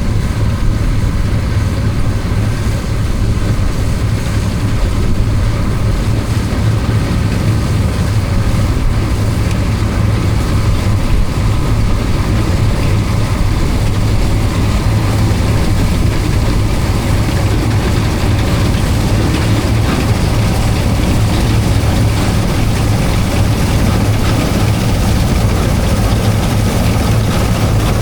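Bizon Super Z056 combine harvester's diesel engine running steadily with a strong low hum, working under load while harvesting triticale.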